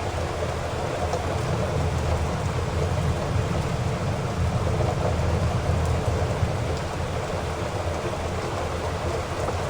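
Heavy rain falling steadily, with a strong deep rumble underneath.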